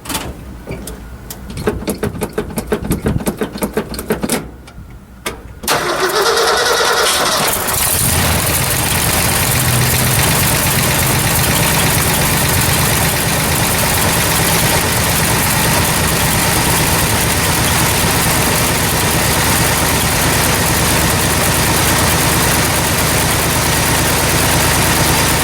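Cold start of a 1966 Ford F100's 352 FE V8 on full choke in freezing weather. After a few seconds of scattered clicks, the starter cranks briefly, the engine catches about eight seconds in, and it settles straight into a steady fast idle.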